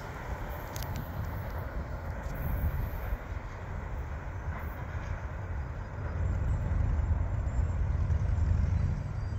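Low rumble of a Norfolk Southern intermodal freight train's last cars rolling away down the track, swelling louder about six seconds in.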